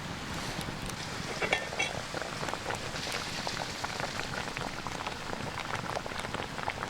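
Campfire crackling and popping in irregular sharp ticks over the steady rush of a small creek, with a light clink about a second and a half in.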